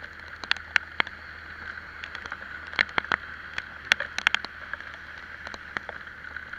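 Scooter riding in the rain: a steady hiss of wet road and wind under a low hum, with sharp, irregular taps of raindrops striking the camera.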